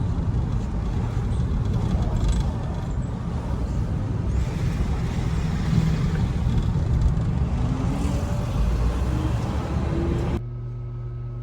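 Steady road and engine rumble, as heard inside a moving car. About ten seconds in it cuts off suddenly and gives way to a quieter, steady low hum.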